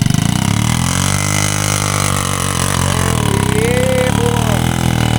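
Small pit bike's single-cylinder four-stroke engine running. Its pitch drops in the first second, holds, then climbs again after about three seconds as it revs up.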